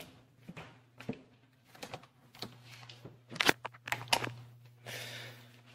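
Cardboard packaging being handled: scattered taps and crinkles, with a couple of sharper knocks about three and a half seconds in and a short scraping rustle near the end, over a low steady hum.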